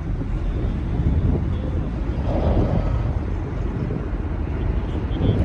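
Wind buffeting the microphone over a steady low rumble aboard a moving boat.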